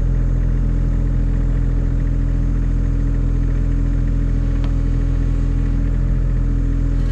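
Engine of a machine that pushes fence posts into the ground, running steadily at one constant speed with a low hum.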